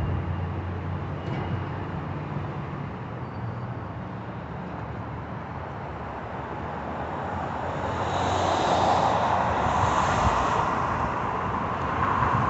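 A low engine hum that fades over the first few seconds, then a rushing, vehicle-like noise swelling for the last few seconds.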